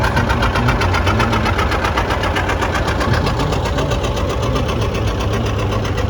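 Large tractor engine running with a steady, even pulsing beat, growing a little softer in the second half as it moves past.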